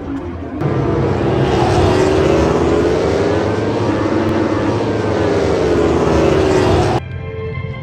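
An aircraft flying low overhead, its engine noise swelling and falling away as it passes; the sound starts abruptly and is cut off suddenly near the end.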